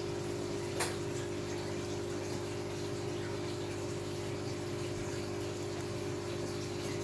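Steady hum and water rush from an aquarium's pump and sump circulation, with one short click about a second in.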